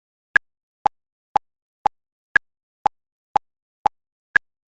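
Countdown timer sound effect ticking evenly about twice a second, every fourth tick higher in pitch.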